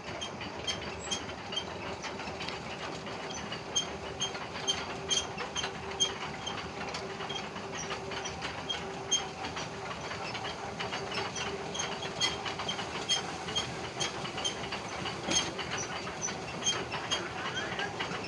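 Motorised conveyor belt running with a steady hum and hiss, and a regular clicking about two to three times a second.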